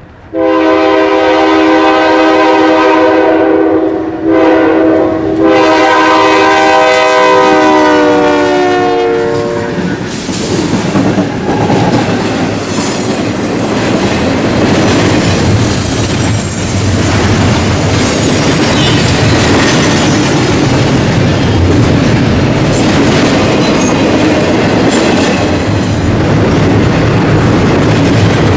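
A freight train's diesel locomotive air horn sounds two long blasts, its chord dropping in pitch as the locomotive goes by. Then the train's cars roll past with a steady clatter of wheels on the rails.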